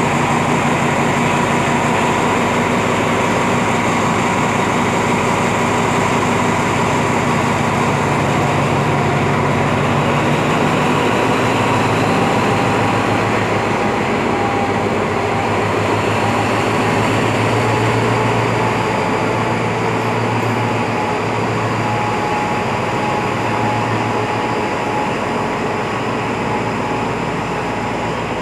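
Diesel-hauled passenger train's coaches rolling along the station platform: a steady, loud rumble with a few held whining tones on top, easing slightly near the end.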